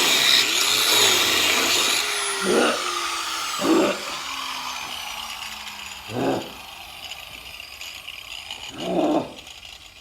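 A power tool starts abruptly at full speed, then winds down over several seconds with a slowly falling whine. Four short, loud bursts come a second or more apart.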